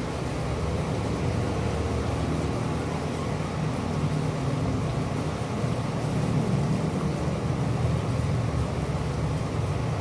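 Steady city rain with a low rumble underneath, even and continuous throughout.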